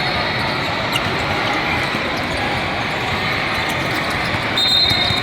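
Sounds of a basketball game in a gym: a basketball bouncing over the steady noise of the court and crowd, with a brief high tone near the end.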